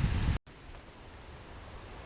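Wind buffeting the microphone, cut off abruptly a moment in, followed by a faint, steady outdoor hiss.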